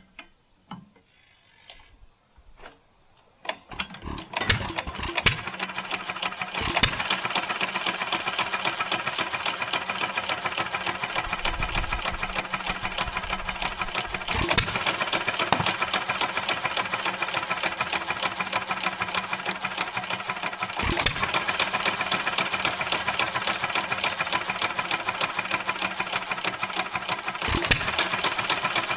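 1926 Stover KA single-cylinder stationary gas engine firing up on its replacement magneto about four seconds in, after a few faint clicks, then running steadily with a fast regular beat. A few loud sharp pops stand out several seconds apart.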